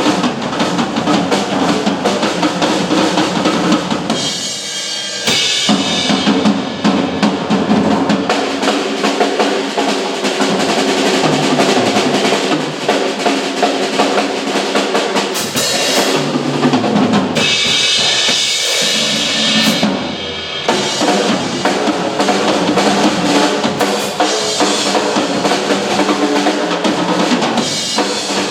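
Two drum kits played together in a duet: fast, dense snare and bass-drum patterns with drum rolls. A brighter, cymbal-heavy stretch comes about five seconds in and again from about 17 to 20 seconds.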